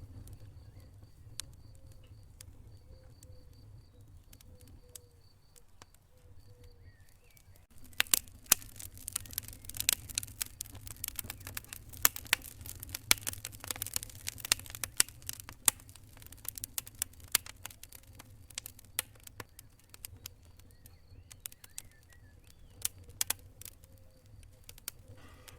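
Wood fire crackling: scattered pops at first, then a dense run of loud snapping crackles from about eight seconds in that thins out again after about sixteen seconds, over a steady low rumble.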